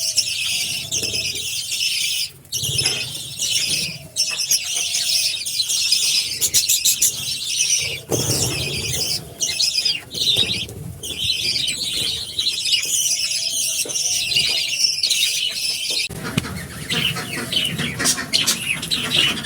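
Many budgerigars chattering continuously in overlapping high-pitched calls, with a sudden change in the sound about sixteen seconds in.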